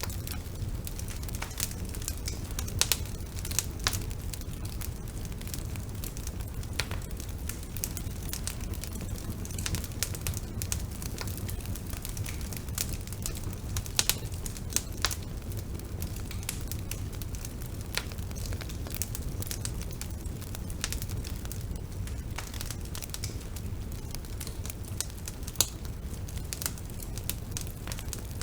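A bonfire burning: a steady low rumble under frequent irregular crackles, with a few louder sharp pops.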